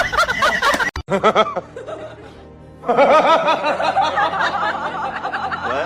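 Laughter in quick repeated bursts over background music, broken by an abrupt cut about a second in and picking up again about three seconds in.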